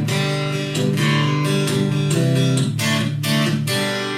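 Acoustic guitar strumming chords in a steady rhythm, an instrumental passage between sung lines of a country song.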